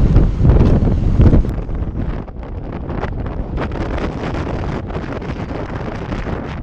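Storm wind from Hurricane Harvey buffeting the microphone. The rumbling is heavy for about the first second and a half, then drops suddenly to a lighter hiss with crackles.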